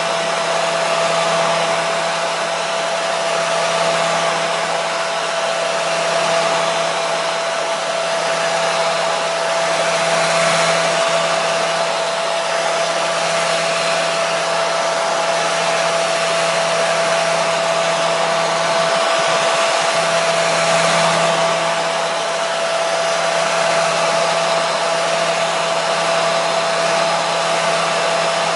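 Hair dryer running steadily: a loud, even rush of air with a constant motor hum, swelling and easing a little over several seconds.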